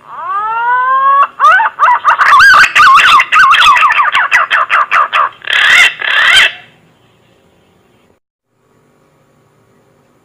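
Punai (green pigeon) song: a rising whistle, then a quick run of warbling, wavering whistled notes, closing with two louder notes. The song ends about seven seconds in, leaving a faint hum.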